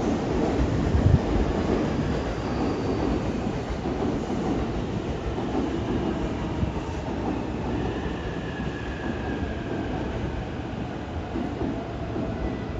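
An E257 series 2000 limited express electric train running along the platform and slowing, with a steady noise of wheels on rails. A faint whine falls in pitch as it brakes toward a stop.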